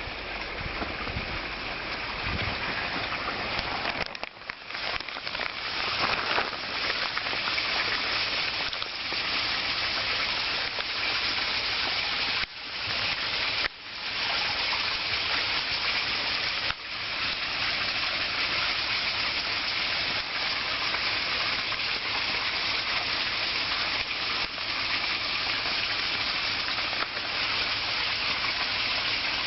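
Water pouring down a man-made garden waterfall into a pond: a steady rushing splash, broken by a few sudden short breaks.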